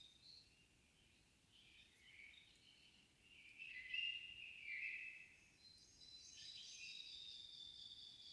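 Faint evening birdsong in a quiet forest: several short songbird phrases of chirps and whistles, strongest about four seconds in, followed by a run of high, thin held notes.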